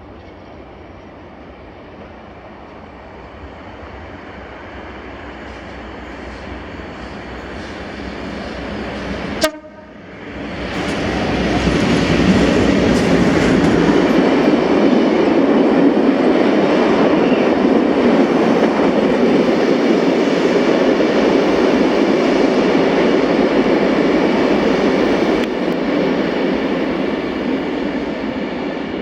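Diesel-hauled Colas Rail freight train approaching, its sound growing over the first nine seconds, with a sharp knock just after that. The train then passes close by, loud and steady for about fifteen seconds, and eases off near the end.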